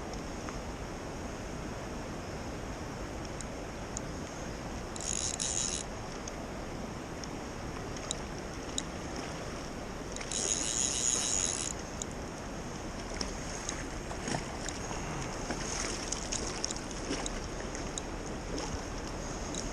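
Steady rush of flowing creek water, with two brief high-pitched buzzes about five and ten seconds in and scattered faint clicks in the second half.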